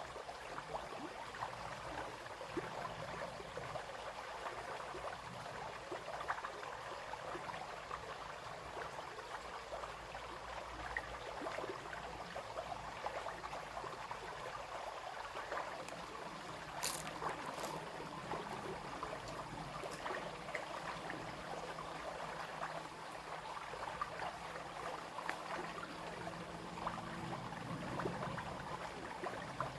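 Small brook babbling: steady trickling and splashing of water over stones. Two sharp clicks a little past halfway, and a faint low hum in the second half.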